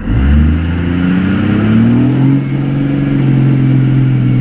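Cummins turbo-diesel truck engine, with a 4-inch MBRP turbo-back exhaust, accelerating hard. The engine note climbs over the first two seconds and then holds steady, and a faint high whistle rises about halfway through.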